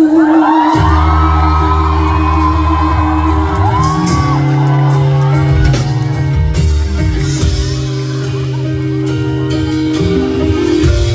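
Live pop-rock band playing a song with sustained bass and a held sung note, recorded from the audience in a large hall, with the crowd shouting and whooping along.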